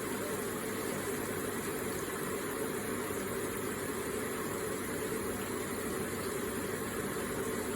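Electric water feature running: water falling and splashing in a steady, even stream.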